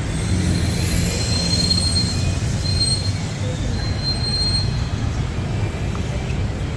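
Steady street traffic rumble, with thin high-pitched squeals that come and go during the first few seconds.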